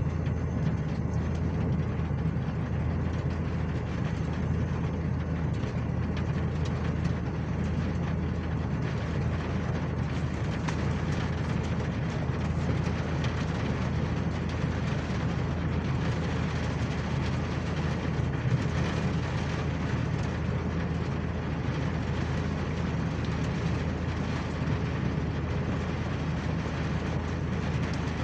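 Steady low rumble of a vehicle in motion, unchanging throughout with no speech over it.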